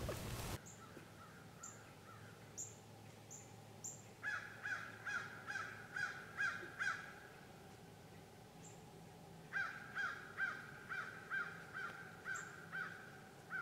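A bird calling in two runs of evenly repeated calls, about two to three a second: about seven calls a few seconds in, then about ten more from the middle on. Faint, short, high chirps from a smaller bird come in between.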